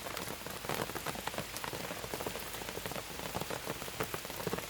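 Steady rain, with many drops ticking sharply on a surface close by.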